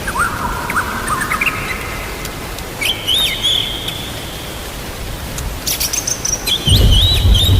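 Songbirds chirping in short rising notes and held whistles over steady rain, with a low thunder rumble near the end.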